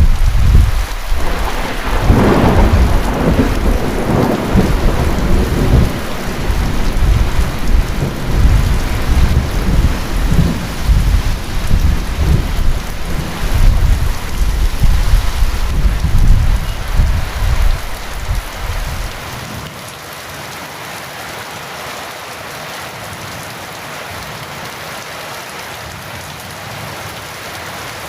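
Heavy rain falling steadily through a long peal of thunder. The thunder starts suddenly, cracks sharply about two seconds in, then rolls and rumbles until it fades out about nineteen seconds in, leaving only the rain.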